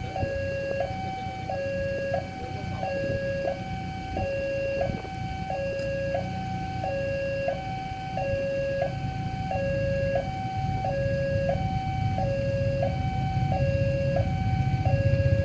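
Indonesian railway level-crossing warning alarm sounding, an electronic two-tone signal alternating steadily between a low and a high note about once a second. A low rumble underneath grows louder in the last few seconds.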